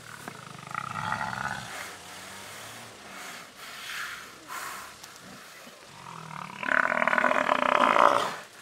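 Warthog squealing in distress, a shorter cry about a second in and a long, loud scream from about six and a half seconds in, as a predator gets hold of it at its burrow.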